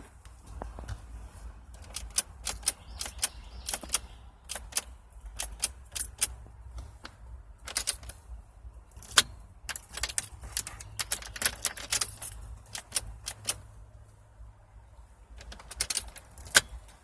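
A run of irregular sharp clicks and light rattles, some close together and some spaced out, with a lull around 14 seconds in and a few more clicks near the end, over a low steady hum.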